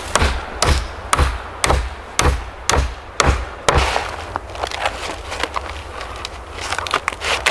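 Repeated knocks on wood, about two a second for the first four seconds, then lighter scattered taps.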